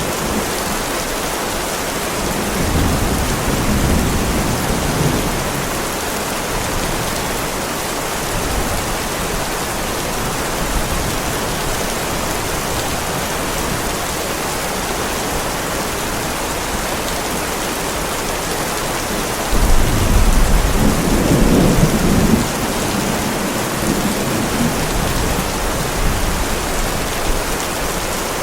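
Heavy rain falling on a driveway: a steady, even hiss. Low thunder rumbles in twice, the louder roll about twenty seconds in.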